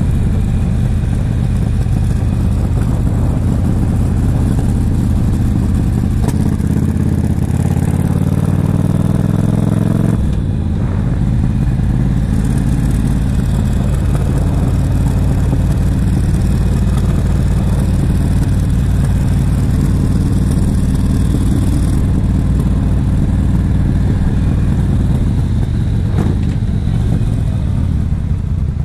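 Yamaha XVS1300CU Stryker's V-twin engine running under way, with wind rushing over the microphone. About six seconds in the engine pitch rises steadily as the bike accelerates, then falls away suddenly about ten seconds in, after which it runs on at an even pitch.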